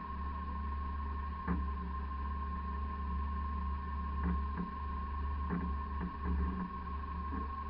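Off-road vehicle engine running steadily at low revs, with a constant thin whine over it. Several short sharp knocks come at irregular intervals.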